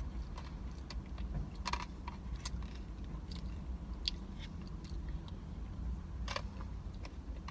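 Someone chewing a mouthful of peppermint-candy ice cream, crunching the hard candy chunks. The crunches come as scattered short clicks over a steady low room hum.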